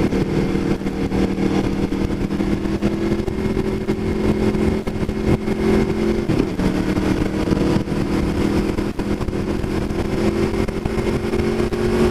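Aprilia Tuono V4 1100 Factory's V4 engine running at speed through an Austin Racing aftermarket exhaust, heard from the rider's seat, its pitch holding nearly steady and rising slightly near the end. Wind rush sounds throughout.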